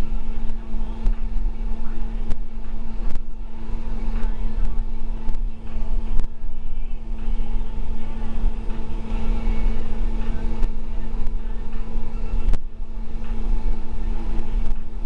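School bus driving, heard from inside: a steady engine and road rumble with a constant droning hum, and a few sharp clicks or rattles.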